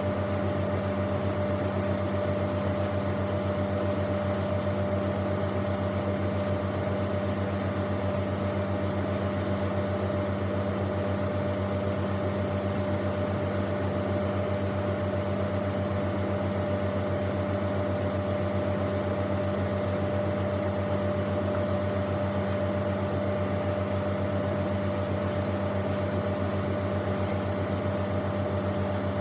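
A farm vehicle's engine running at a steady, unchanging speed: a constant droning hum with a thin higher whine over it.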